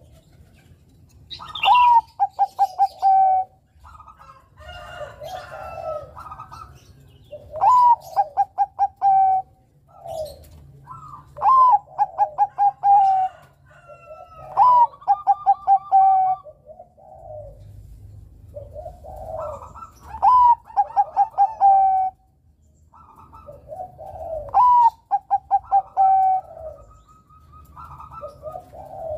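A male Bangkok-strain zebra dove (perkutut) sings its cooing song six times, about every four to five seconds. Each phrase opens with a rising note and breaks into a quick run of short, evenly spaced coos, with softer low coos between the phrases.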